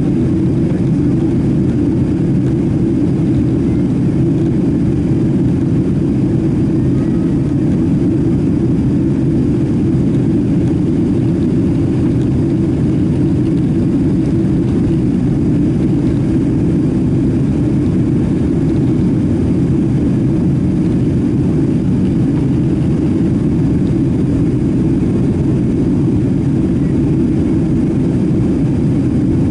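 Steady low drone of a Boeing 767-300ER's jet engines and airflow heard inside the passenger cabin, holding level without rising or falling.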